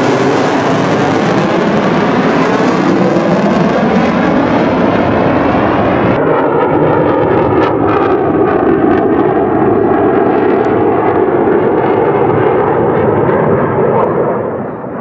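Jet aircraft passing low overhead: a loud, continuous jet rush whose sharper top end dies away as it draws off, easing in loudness near the end.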